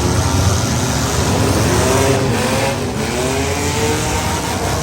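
Several compact demolition-derby cars' engines running and revving, their pitch rising and falling, over a loud steady din of engine noise.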